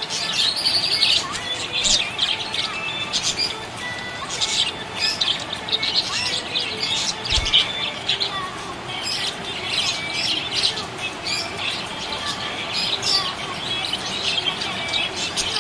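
Budgerigar chirping and warbling without pause, a dense run of short, quick chirps.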